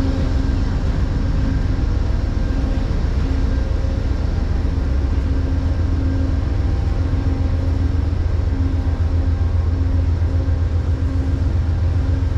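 A large engine running steadily: a loud low rumble with a faint hum over it that pulses on and off.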